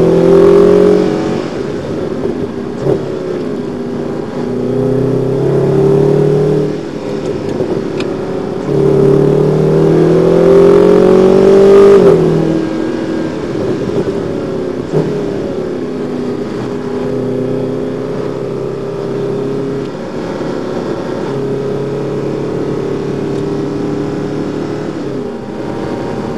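Mercedes-AMG car's engine heard from inside the cabin while lapping a race track. It pulls up in pitch under acceleration, drops back sharply twice, then runs at a steadier, lower note through the corners.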